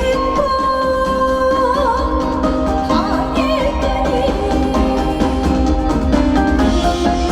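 A woman singing live over amplified band accompaniment with a strong bass. She holds long notes that waver in pitch, in a Korean traditional (pansori-trained) vocal style.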